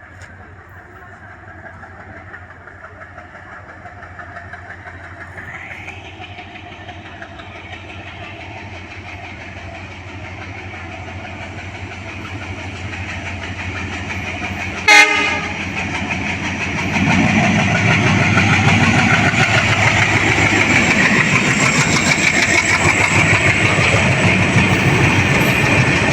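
A train approaching and then passing close by, its wheels clattering over the rail joints, growing louder for the first fifteen seconds or so. About fifteen seconds in there is a sudden, very short, loud burst, then the passing train becomes loud and stays loud to the end.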